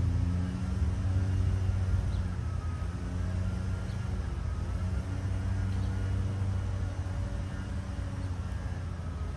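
Steady low rumble with an engine-like hum, as from a running vehicle or traffic. A few faint, short high chirps sound over it.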